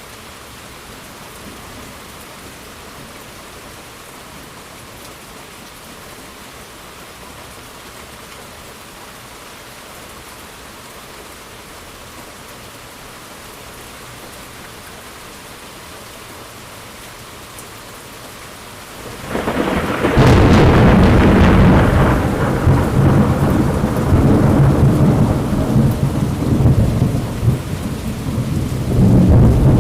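Steady rain falling, then about two-thirds of the way in a sudden loud crack of thunder that rolls on as a long, deep rumble, swelling again near the end.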